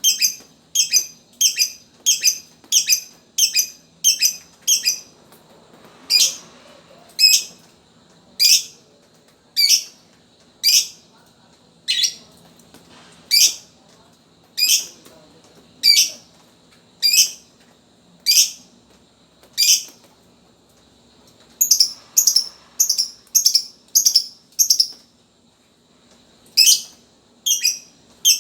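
Lovebird calling in short, sharp high chirps, the clipped repeated 'ngetik' call. The chirps come in fast runs of two to three a second at the start, around two-thirds of the way in and near the end, and slow to about one a second in the middle.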